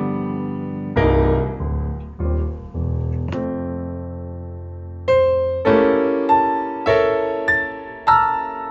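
Solo piano playing slow chords, each struck and left to ring. A low note is held for a couple of seconds midway, then a run of chords comes about every half second.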